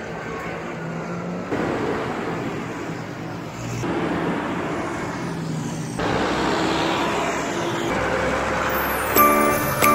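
Tractors driving along a road, with engine noise and tyre rumble in several short clips that cut abruptly every couple of seconds. Music comes back in near the end.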